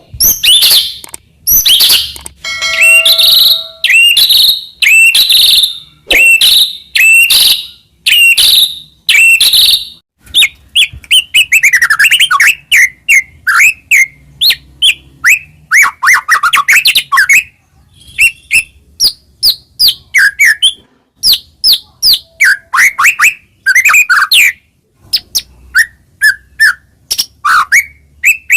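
White-rumped shama (murai batu) singing a loud, varied song. It opens with a string of rising whistled notes, roughly one every second. About ten seconds in it turns to quick runs of short, sharp and falling notes.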